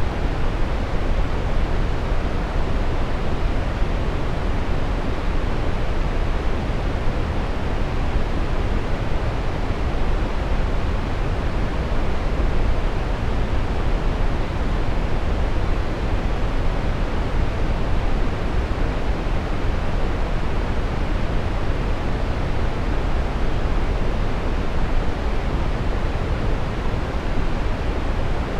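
Steady brown noise: an even, deep rushing hiss, strongest in the low end and fading toward the top, with no change in level.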